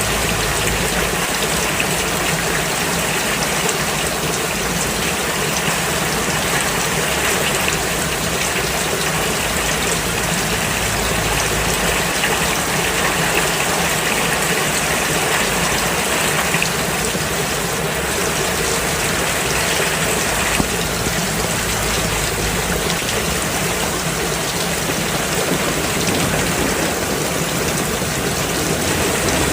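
Steady rain falling on a road surface, a constant even hiss of drops.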